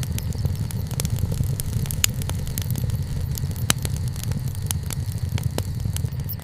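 Wood campfire burning, with frequent sharp crackles and pops from the wood over a low steady rumble; two louder pops about two seconds and nearly four seconds in.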